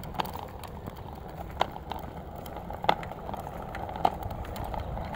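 Footsteps walking at an uneven pace, a series of scattered taps and scuffs over a steady low rumble.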